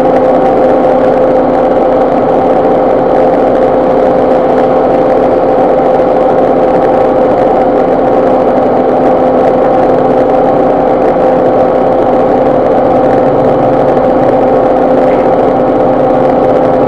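Ford EcoSport running at a steady idle, a constant mechanical hum with a fixed steady tone and no change in speed.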